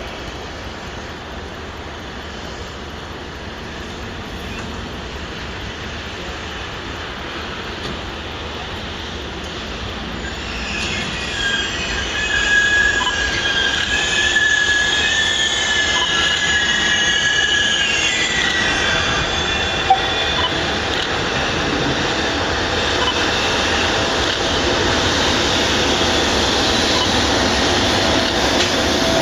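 Freight train rolling through, growing louder. From about ten seconds in, a high wavering wheel squeal lasts several seconds, then gives way to the steady running noise of the wagons.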